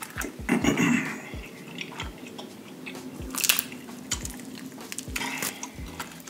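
Chewing and wet mouth clicks of a person eating buttery lobster tail meat, with a few louder crackles, the loudest about three and a half seconds in.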